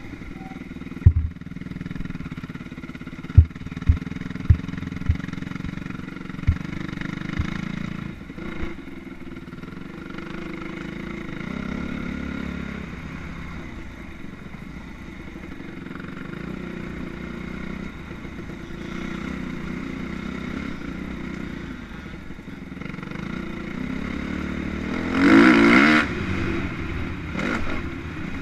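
Motocross motorcycles running on the track, their engines a steady drone in the distance, with one bike passing close and revving up loudly about 25 seconds in. A few sharp low thumps come in the first seven seconds.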